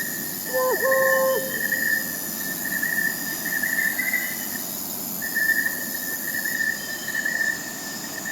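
Night chorus of crickets chirping steadily, briefly pausing about halfway through. About a second in, an owl gives one short whistled call.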